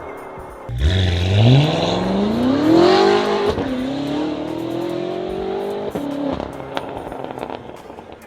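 BMW M6 F06's twin-turbo V8 running through a custom-built exhaust: it starts suddenly about a second in, revs up steadily for about two seconds, drops back, holds a raised rev that creeps slightly higher, then falls away near the end.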